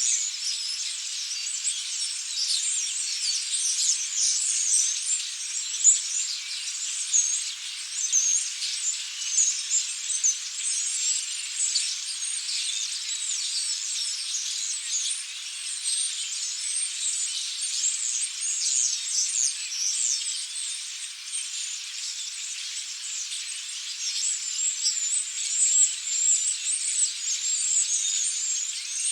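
A large flock of European starlings chattering: a dense, continuous mass of overlapping high squeaky calls and whistles.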